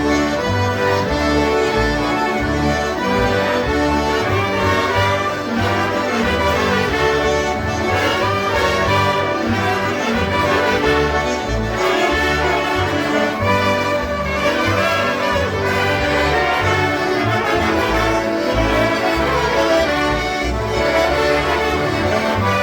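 Live polka music played by a group of concertinas, with a steady bass beat.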